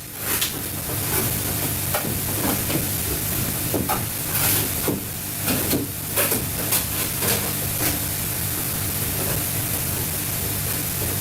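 Food frying with a steady sizzle, and occasional short clicks and scrapes of a utensil against the pan.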